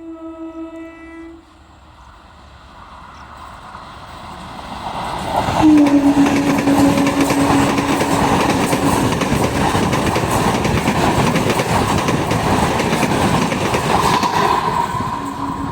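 Indian Railways train sounding its horn briefly, then coming close and passing with a long horn blast of about three seconds and loud, steady rolling noise from its wheels on the rails. Another short horn sounds near the end.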